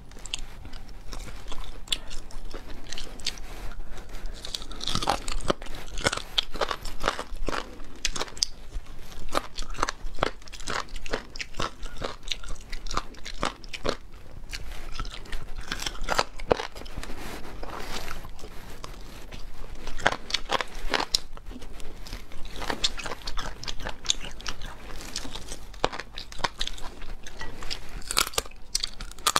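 Close-miked chewing and gnawing on chicken bones with crunchy cartilage: an irregular run of sharp, crisp crunches.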